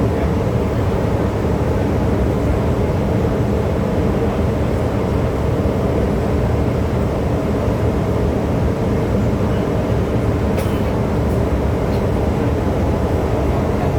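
MTR M-Train electric multiple unit running at steady speed: a continuous rumble of wheels on rail with a low hum, unchanging in level.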